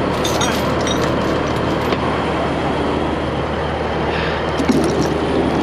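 Heavy diesel truck engine running steadily, with a few faint clicks over it.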